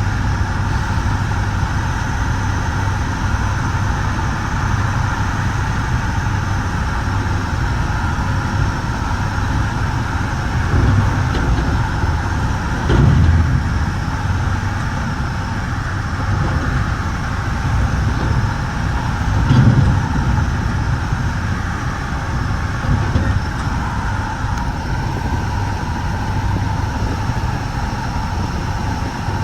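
Steady running noise of a bi-level commuter train car in motion, with its wheels rumbling on the rails. Two short louder thuds break in, a little before halfway and about two-thirds through.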